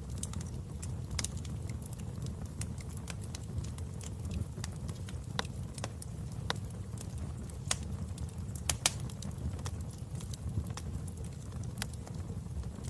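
Wood fire in a fireplace crackling: irregular sharp pops and snaps over a low, steady rumble of the flames, with a couple of louder pops about two-thirds of the way through.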